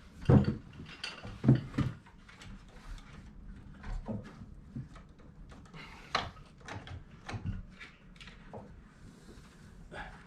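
Window frames being shifted and knocked together as their male and female edges are worked to interlock: a series of knocks and clicks, the two loudest within the first two seconds, then lighter ones scattered after.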